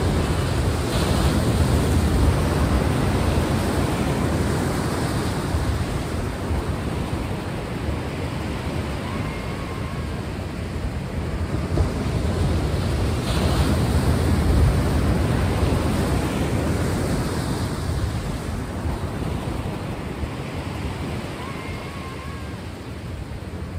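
Sea waves washing in, swelling about two seconds in and again around fourteen seconds, then easing off. Twice a faint, brief warbling tone sounds over the surf.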